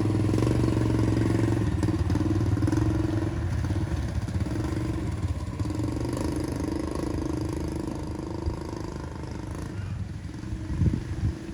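A small engine running steadily with a low hum, slowly growing fainter, with a few sharp knocks near the end.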